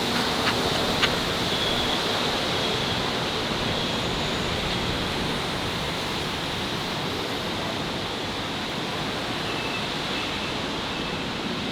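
Steady rushing noise that eases slightly over the stretch, with a few sharp clicks in the first second.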